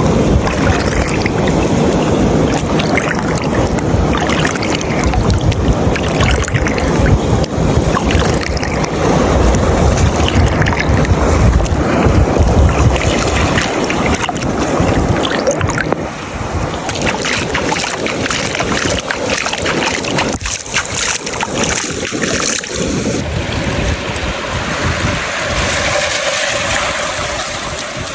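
Ocean waves washing ashore, with wind buffeting the microphone. The sound is a loud, steady rush that drops a little past halfway.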